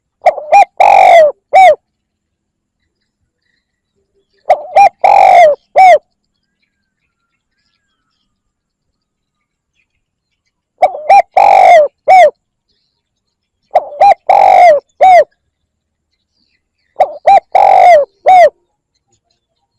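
Spotted dove cooing: five calls spaced a few seconds apart. Each is a couple of short coos, a longer drawn-out coo and a short closing note.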